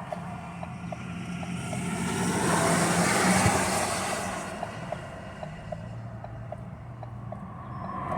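Ford Focus 1.0 EcoBoost three-cylinder turbo engine heard from inside the car, running at low revs and failing to build RPM, a fault the owner suspects may be an ECU issue. A light tick repeats about twice a second, and a rush of noise swells and fades in the middle.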